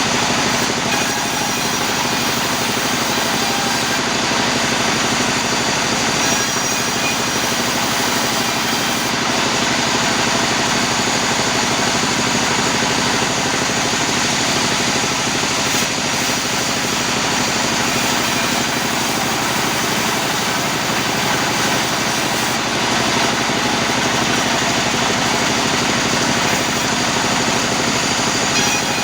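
Sawmill machinery running steadily, a loud, even mechanical noise with a faint steady hum that holds without a break.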